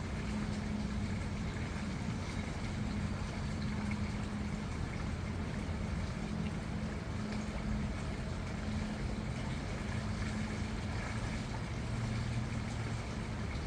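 River swollen by heavy rain, its water rushing steadily, with a deep low rumble underneath.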